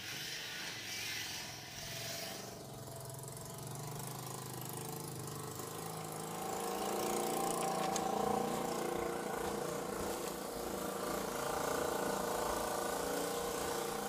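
A motor vehicle engine running steadily, growing louder about halfway through.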